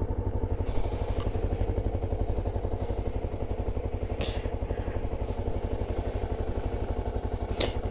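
Honda dual-sport motorcycle engine idling with a steady, even low pulse, with a few faint light clicks over it.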